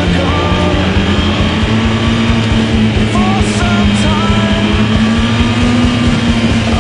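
Kawasaki ZX-9R's inline-four engine running at steady high revs under way, its pitch climbing slightly over the first couple of seconds and then holding.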